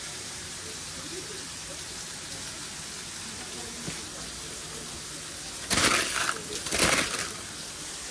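Food-truck kitchen noise: a steady hiss, then two loud, short noisy bursts a little over half a second apart near the end.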